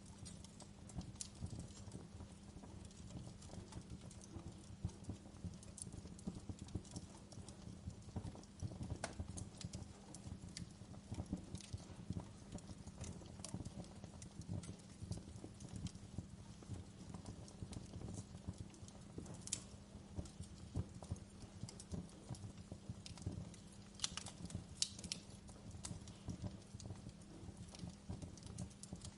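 Wood fire crackling in a fireplace: a steady low rustle of burning with dense, irregular small pops and snaps, and a few sharper snaps in the last third.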